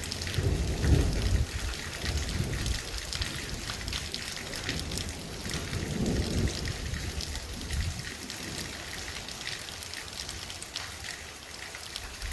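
Heavy rain falling steadily in a dense patter of drops, with low thunder rumbling near the start and again around six seconds in.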